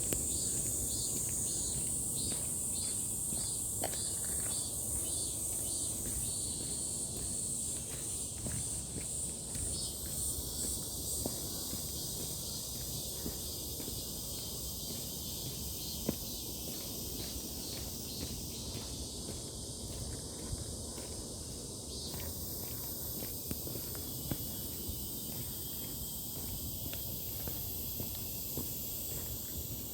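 Insects shrilling steadily at a high pitch, pulsing about twice a second over the first several seconds, with low rumbling noise and a few light clicks underneath.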